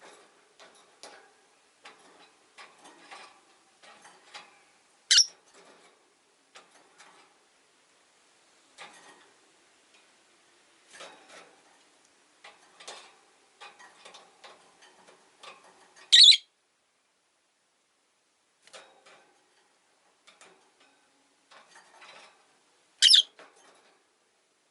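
Rosy-faced lovebirds: a scatter of soft clicks and taps throughout, broken three times by a loud, very short, shrill chirp, about five, sixteen and twenty-three seconds in.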